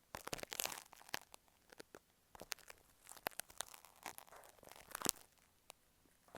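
Fingertips tapping and scratching on an earphone microphone, making irregular close-up clicks and short scratchy rustles.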